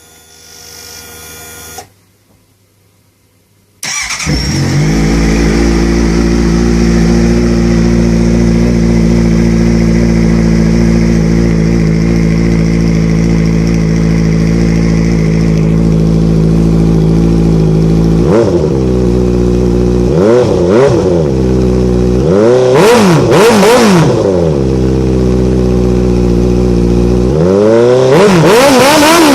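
Honda CBR650F inline-four motorcycle engine on an aftermarket exhaust starting about four seconds in and idling steadily, then blipped several times with quick rises and falls in revs, and revved higher near the end.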